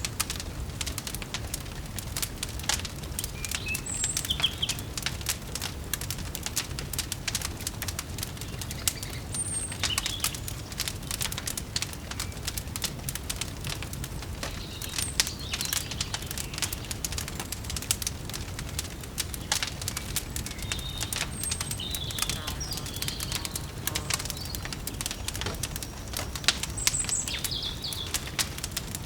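Wood fire crackling with a dense, continuous run of small sharp pops over a low rumble, with short high bird chirps now and then.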